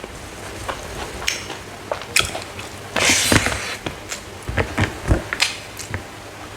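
Close-up biting and chewing of dried smoked frog: a string of irregular sharp crunches, with a louder, longer crunch about three seconds in.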